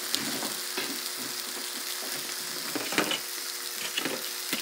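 Breaded thin chicken breasts sizzling as they fry in butter in an electric skillet, a steady hiss broken by a few sharp crackles.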